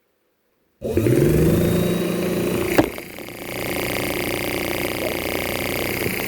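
Old Atlas belt-driven airbrush air pump and its electric motor switched on, the hum rising quickly as the motor spins up, then running steadily. A sharp click a little before halfway, after which it runs somewhat quieter.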